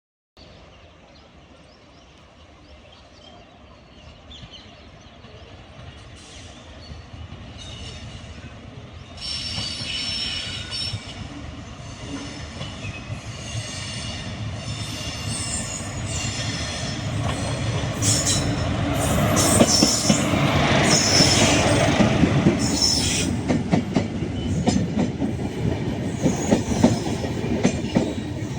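Indian Railways express passenger train approaching and passing, growing steadily louder, with high-pitched wheel squeal from about nine seconds in and the clatter of wheels over rail joints in the second half.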